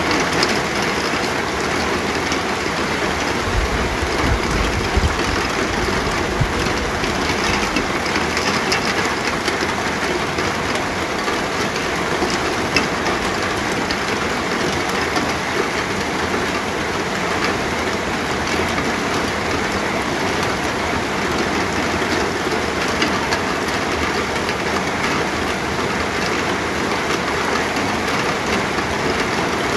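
Steady, heavy rain falling. A low rumble rises under it for a few seconds near the start.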